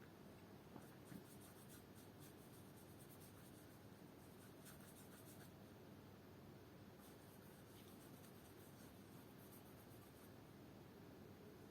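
Near silence with faint, intermittent scratchy rubbing strokes on shoe leather, coming in short clusters: leather being worked by hand during colour restoration.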